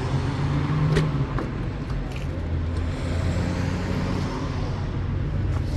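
A motor vehicle's engine running steadily, with a brief click about a second in.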